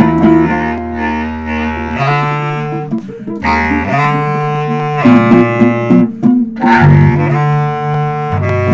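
Instrumental music: a low reed instrument, a bass clarinet, plays held notes in short phrases of a second or two over an electric bass line. The bass drops out about two seconds in.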